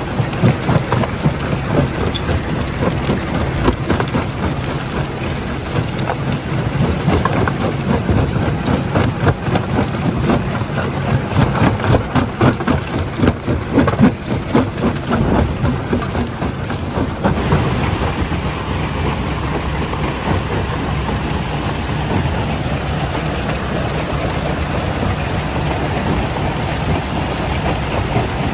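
Primary jaw crusher running and crushing rock, with dense irregular cracking and clatter of stone over the machine's rumble. About seventeen seconds in, the clatter gives way to a steadier machine noise.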